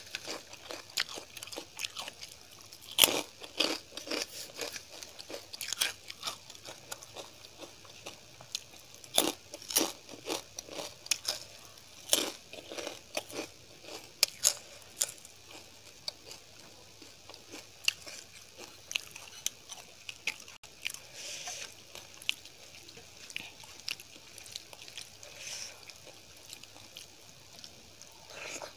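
Close-miked eating: a person chewing and crunching mouthfuls of rice and curry, with many short wet mouth clicks, thicker in the first half and sparser later.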